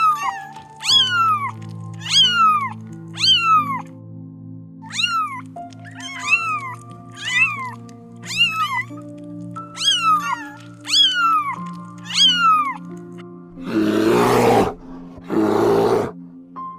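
Domestic cat meowing over and over, short mews each falling in pitch, over background music with sustained notes. Near the end the meows stop and two loud, rough, noisy growls follow, each about a second long.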